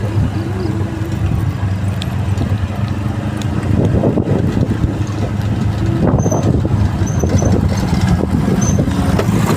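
Motorbike engine running steadily while riding, a low even hum.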